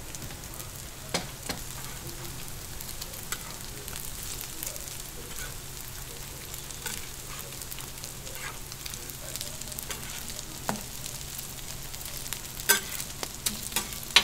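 Hamburger patties frying in oil on a flat-top griddle, a steady sizzle with fine crackling. A few sharp clicks break through, the loudest near the end.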